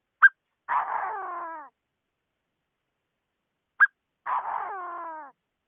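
Chinese francolin calling twice, a recorded lure call. Each call is a short sharp note followed by a harsh, downward-sliding call about a second long, repeating about every three and a half seconds.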